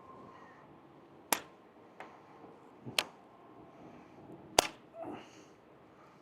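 Four sharp clicks or taps, roughly a second apart, the last one the loudest, followed by a short soft rustle.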